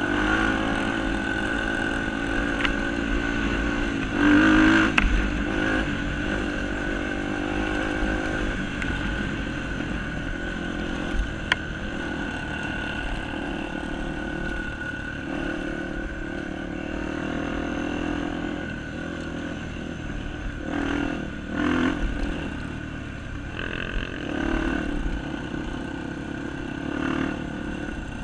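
Honda XR250 Tornado trail motorcycle's single-cylinder four-stroke engine running, swelling louder about four seconds in and a few more times near the end. There is one sharp click around the middle.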